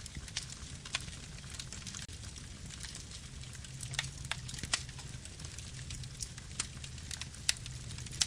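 Campfire burning: wood crackling, with irregular sharp pops several times a second over a low, steady rumble of flame.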